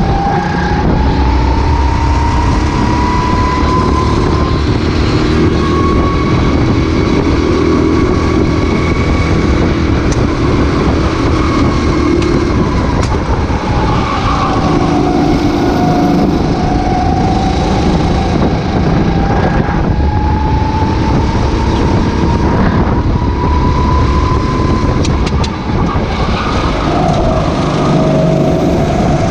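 Racing kart engine heard onboard at racing speed. Its pitch climbs and drops again and again as the throttle opens and closes through the lap, over a steady low rumble.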